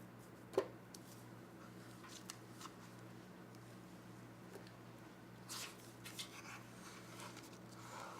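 Strawberry ice cream being scooped out of a pint carton into a blender jar: a sharp knock about half a second in, then faint scattered clicks and short scraping rustles.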